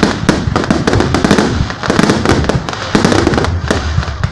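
Fireworks going off: many rapid, overlapping bangs and crackles over a continuous low rumble.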